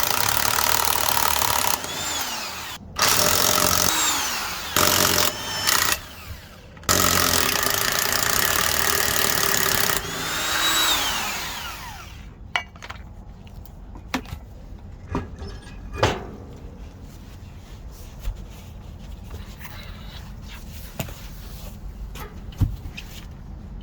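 A power tool runs in several loud bursts, its motor whining down between them, as a boat trailer wheel is taken off. After about twelve seconds it stops, and scattered clanks and knocks follow as the parts are handled.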